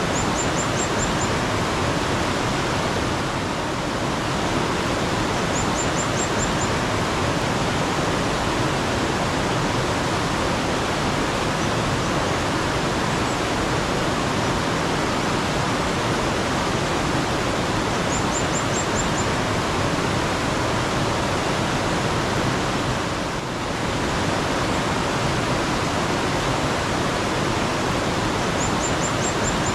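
Steady sound of flowing water in a mountain stream, with a small bird's brief, very high run of about five quick notes heard four times: near the start, around six seconds in, a little past the middle, and near the end.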